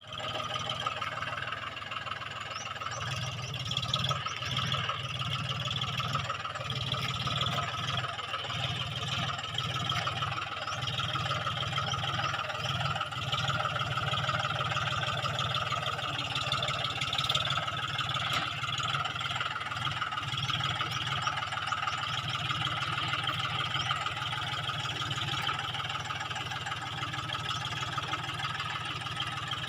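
Tractor engine running steadily, with an even, fast rhythmic chug.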